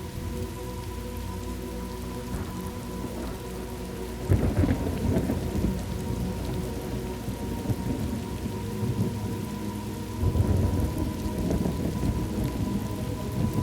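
Steady rain with thunder rumbling in twice, about four seconds in and again about ten seconds in.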